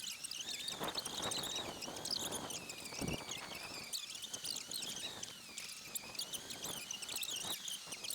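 Birds chirping and singing, with many quick, warbling high calls overlapping, and a few faint clicks.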